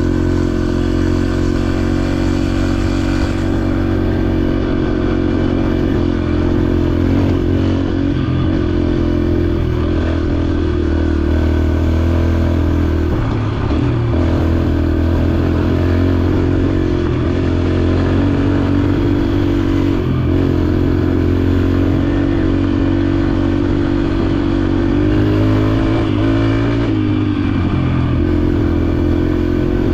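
Dirt bike engine running under way at a fairly steady pace, with brief dips and shifts in engine pitch about halfway through and again near the end as the throttle changes.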